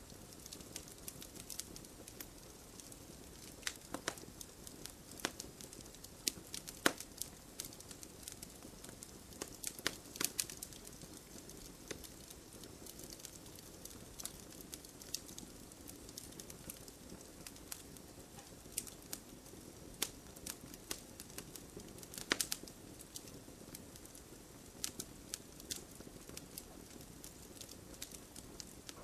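Campfire burning: a steady soft hiss with irregular sharp crackles and pops of burning wood, a few louder pops standing out.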